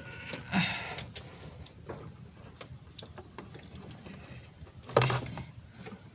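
Oil filter being turned off by hand under a Mitsubishi Pajero Sport's diesel engine: scattered light scrapes and clicks, with a knock about half a second in and a louder knock about five seconds in.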